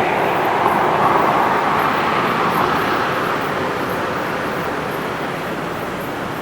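A road vehicle passing close by on a city street: its engine and tyre noise swells about a second in, then slowly fades away over steady traffic noise.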